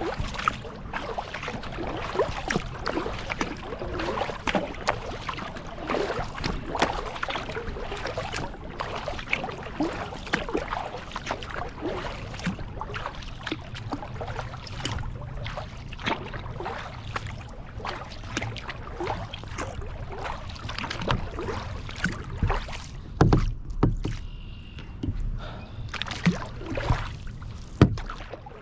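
Kayak being paddled: water splashing and trickling off the paddle blades and lapping against the hull in a continuous irregular patter. Near the end come a few louder sharp knocks.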